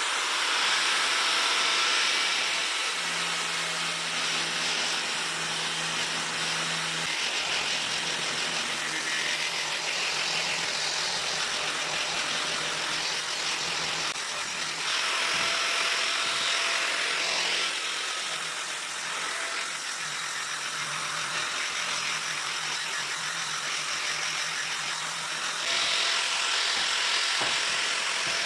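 Handheld electric power tool working on a steel railway rail, a continuous abrasive grinding with a motor whine that sags in pitch under load and picks up again a few times.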